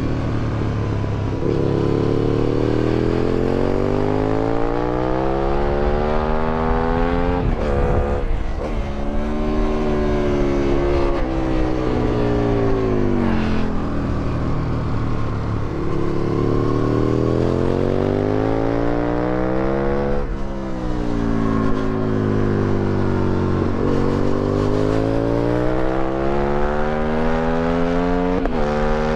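2008 Aprilia Tuono 1000R's V-twin engine, through an Akrapovic exhaust, pulling hard through the gears on track: the pitch climbs in long sweeps and drops sharply at each upshift, then falls away several times as the bike slows for corners.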